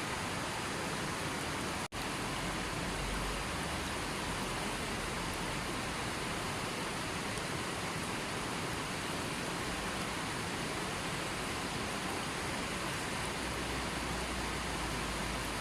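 Steady, even hiss of falling water, like rain or a waterfall, with no birds or other distinct sounds; it drops out for an instant about two seconds in.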